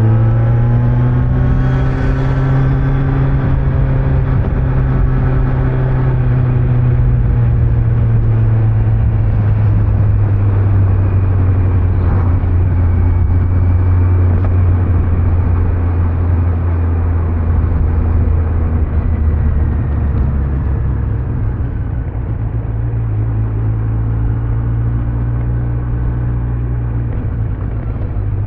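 Kawasaki Z900's inline-four engine on its stock exhaust, rising in pitch over the first couple of seconds as the bike accelerates, then running steadily at cruising speed with wind and road noise. The engine eases off a little about two-thirds of the way through and then picks up again.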